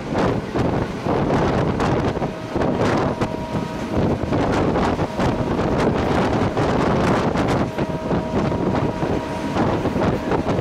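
Wind buffeting the microphone over the steady running noise of a moving train. A faint steady ringing tone comes in twice, for a second or two each time.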